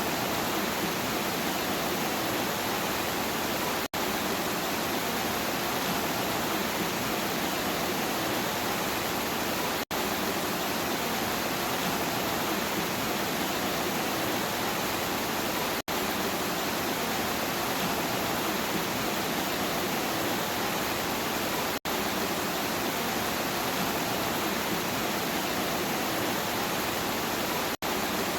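Steady, even rain noise with no thunder. The sound cuts out for a split second about every six seconds, the seams of a short looped recording.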